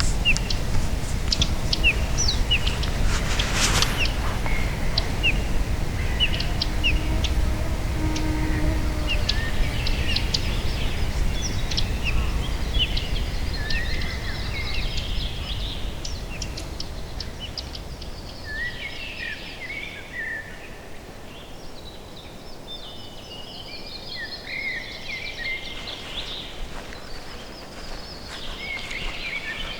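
Several small songbirds chirping and singing, with short repeated chirps at first and fuller, more varied song in the second half. A low rumble is loudest through the first half and fades out about halfway.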